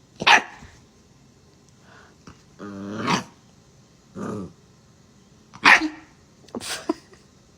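XL bully puppy barking at a cat about five times, spaced out, one bark about three seconds in drawn out longer than the rest.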